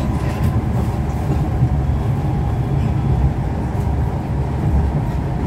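Cabin noise of a Siemens C651 metro train running at speed on elevated track, heard from inside the carriage: a steady low rumble with no change in pitch or level.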